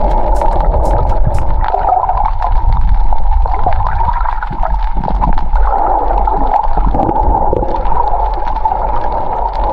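Water gurgling and rushing, heard underwater through a camera's waterproof housing, with a steady low rumble and scattered clicks.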